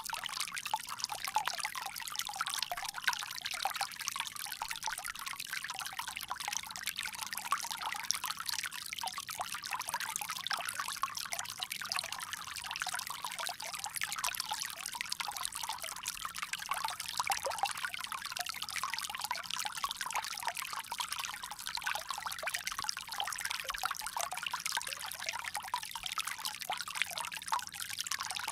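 Water pouring steadily from a bamboo spout, an even trickle and splash that stays mostly high with no low rumble.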